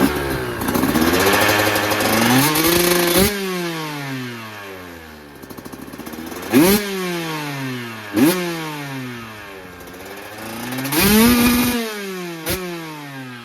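2024 KTM 125SX's 125 cc two-stroke single-cylinder engine, fitted with a Pro Circuit R-304 Shorty silencer, being revved: one longer rev near the start, then four sharp throttle blips, each falling back in pitch toward idle. The exhaust note is crisp.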